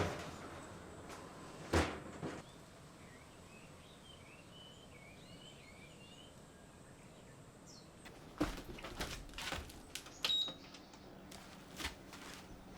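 Scattered knocks and clatters of objects being handled: two near the start, then a run of them in the second half. Faint bird chirps sound in the quiet stretch between them.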